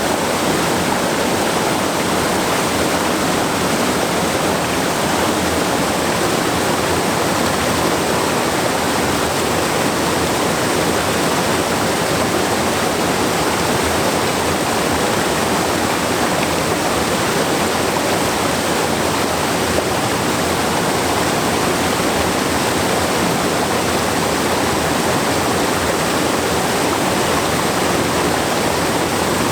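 Waterfall and river water rushing and splashing steadily over rocks, a loud, even noise.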